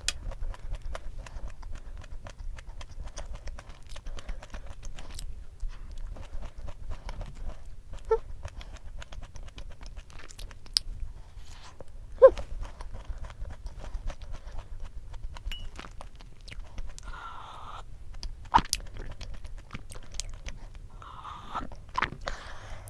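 Close-miked chewing of a thick Levain-style pumpkin cookie: a steady run of small wet mouth clicks, with a few sharper clicks now and then.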